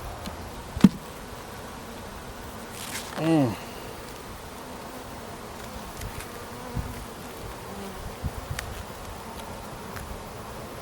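Honeybees buzzing around an open hive during an inspection. About three seconds in, a bee passes close by and its buzz falls in pitch. A sharp click just under a second in and a few lighter clicks later stand out.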